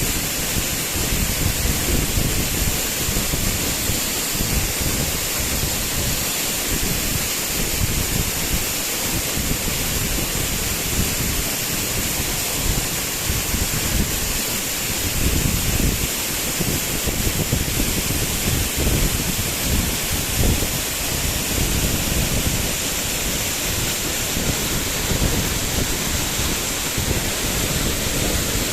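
Waterfall rushing: a steady, loud hiss of falling water with an uneven low rumble underneath.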